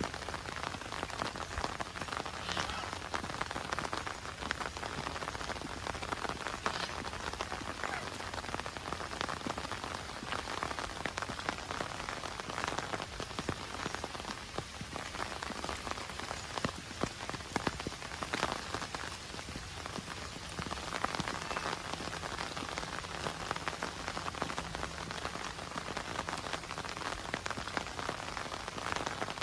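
Heavy monsoon rain falling steadily, a dense patter of drops on surfaces.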